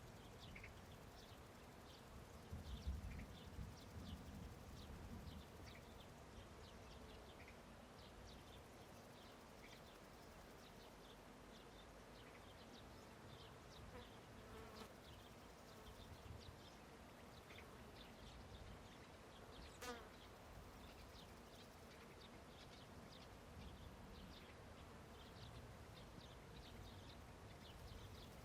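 Faint meadow ambience: insects buzzing, with many short, scattered high chirps. There is a low rumble a few seconds in and a single sharp click about two-thirds of the way through.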